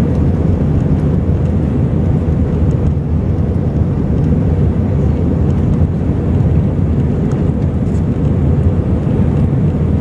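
Jet airliner cabin noise: a loud, steady rumble of engines and rushing air, with no change in pitch.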